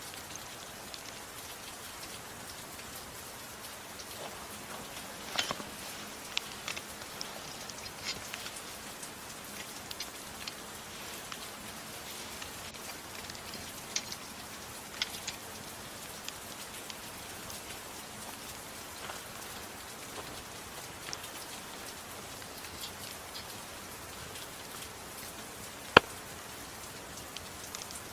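Steady soft rain hiss, mixed with the occasional sharp crackle and pop of a wood fire in a fireplace. The pops come at irregular intervals, with a cluster in the first half and a single louder pop near the end.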